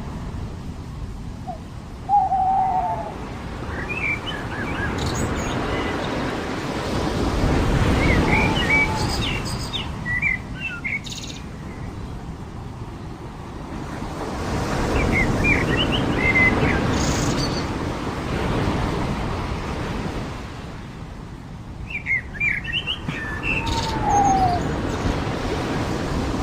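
Surf washing onto a beach, swelling and easing about every eight seconds, with birds chirping in short clusters throughout. A lower, falling bird call comes twice, near the start and near the end.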